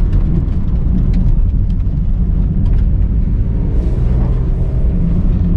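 Car driving along a road: a steady low rumble of engine and tyres, with small clicks and ticks scattered through it.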